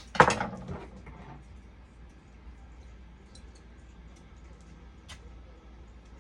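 Workbench handling noise: a short clatter about a quarter second in, then a few faint, scattered clicks over a low steady hum.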